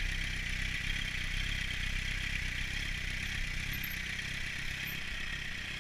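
2004 Kawasaki Z750's inline-four engine with an aftermarket LeoVince exhaust, running steadily at low revs like an idle, with no revving.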